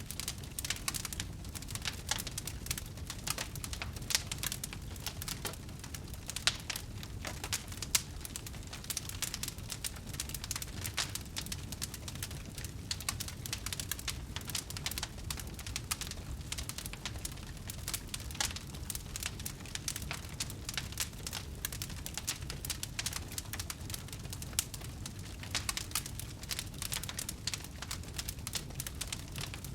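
Wood fire crackling, with a dense, irregular run of small snaps and pops over a low steady rumble of the flames. A sharper pop stands out about eight seconds in.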